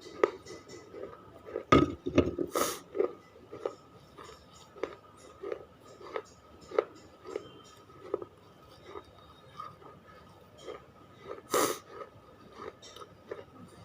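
A person biting and chewing hard, dry clay chips close to the microphone: soft crunches in a steady chewing rhythm, with a few sharper, louder bites, two of them about two seconds in and another late on.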